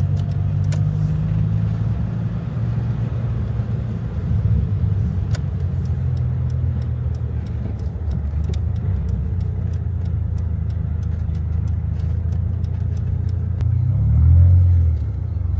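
Dodge Viper V10 engine running with a steady low drone, swelling briefly as it revs about 14 seconds in.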